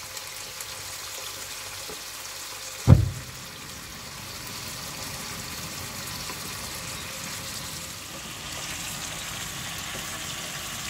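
Chicken livers and gizzards frying in oil with their watery marinade, a steady wet sizzle and bubble while a wooden spoon stirs them in the pan. A single loud knock about three seconds in.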